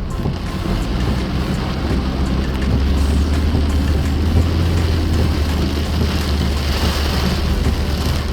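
A car driving through heavy rain, heard from inside the cabin: a steady low rumble of engine and road, with rain hissing on the car. The low rumble grows louder about three seconds in.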